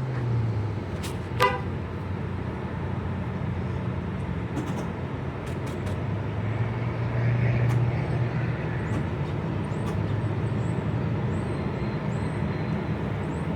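Outdoor traffic and engine noise around a fuel and charging station, with a steady low hum. A single short horn-like beep sounds about a second and a half in, and a vehicle swells past around the middle.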